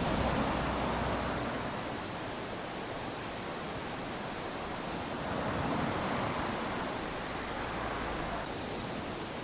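Small waves lapping onto a sandy beach, a steady wash of surf that swells as a wave runs up the sand near the start and again about five to six seconds in.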